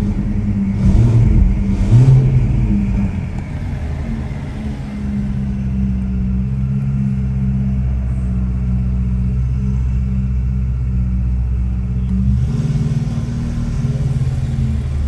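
Ferrari 488 Pista's twin-turbo V8 through an aftermarket Ryft exhaust, with two short loud surges about one and two seconds in, then running steadily at a low, even pitch that shifts slightly near the end.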